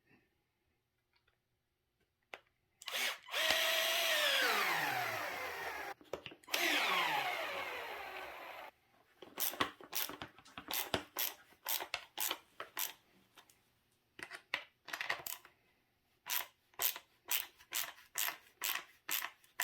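Cordless power driver running twice, each time holding speed and then winding down in pitch as the trigger is let go, while it drives screws into the RC car's bumper support. Then a long series of short sharp clicks, about two a second.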